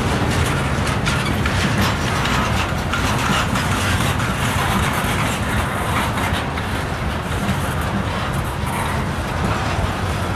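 Freight train rolling past: a steady rumble and rattle of wheels on the rails with many quick clicks, and a low engine hum that fades in the first second.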